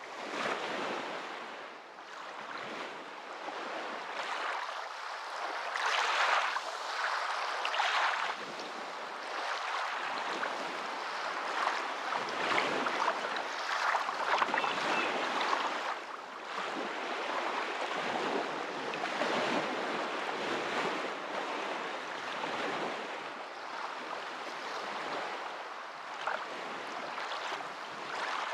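Moving water: an unbroken rushing and splashing hiss that swells and eases every few seconds, with no lulls.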